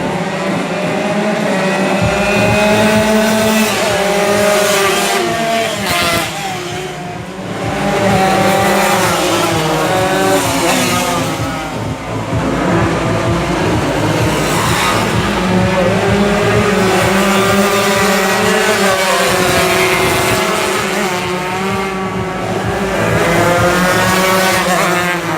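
Tuned two-stroke Yamaha RX-King motorcycle engine, bored to 140cc for road racing, running loud at high revs. Its engine note climbs and drops again and again as it is worked through the gears.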